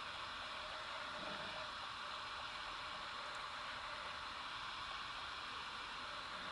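Steady, even hiss with no distinct events and a faint low hum under it.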